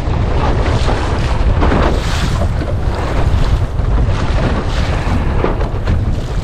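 Wind buffeting the microphone in gusts over water rushing and splashing along the hull of a small centreboard sailing dinghy moving through waves, with a few louder splashes as it meets the waves.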